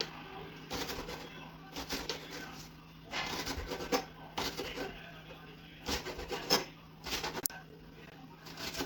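Knife chopping vegetables on a cutting board, in short runs of strokes about once a second.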